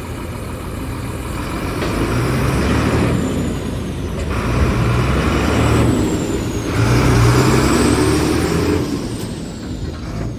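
Sinotruk Howo dump truck's diesel engine running, growing louder and easing off again three times.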